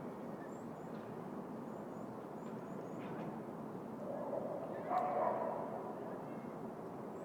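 Steady hum of city ambience around an urban park, with a few faint, high bird chirps in the first few seconds. About five seconds in, a brief louder sound with a clear pitch stands out, such as a call or a dog's bark.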